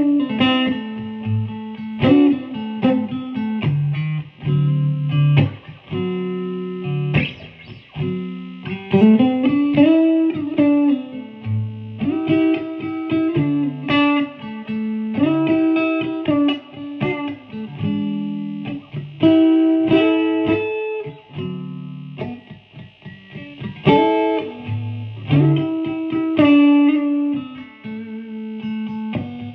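Electric guitar played through a 100-watt single-channel amplifier built on Dumble and Tweed Bassman designs, with a clean tone. It plays single-note lines with string bends, mixed with picked chords.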